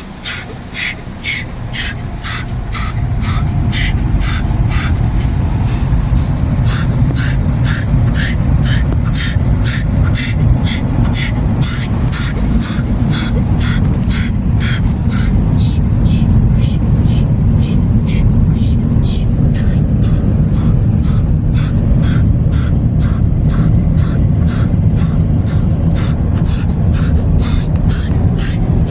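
Automatic car wash dryer blowers running, heard from inside the car as a heavy steady rumble that builds over the first few seconds and then holds. Through it comes a regular ticking, about two to three clicks a second.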